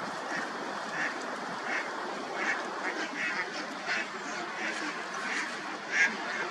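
Waterfowl calling: many short calls in quick, irregular succession over a steady background hiss.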